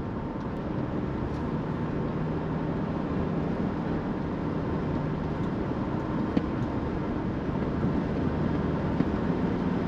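Steady road noise of a car driving at speed: a continuous rush of tyre and engine sound with a low, even hum.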